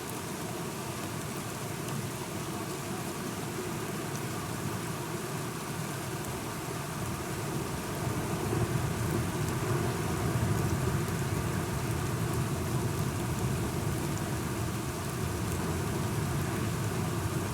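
Steady rain falling, with a low rumble of distant thunder that swells about halfway through.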